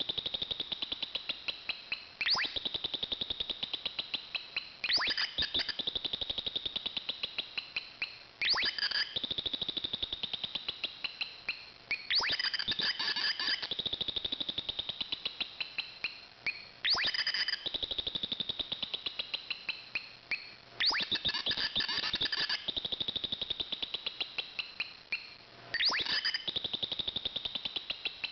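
Homemade two-transistor (BC547/BC557) electronic bird-call circuit chirping through a small 8-ohm speaker. It gives a fast train of high chirps that slowly fall in pitch and fade as the capacitor discharges. A brighter, louder burst renews them every three to five seconds, each time the push button recharges the capacitor.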